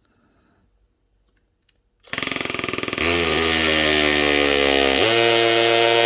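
Makita 18V brushless hammer drill run on its hammer drill setting: it starts about two seconds in with a fast rattling pulse, then runs up to full speed with a steady whine that shifts in pitch about five seconds in.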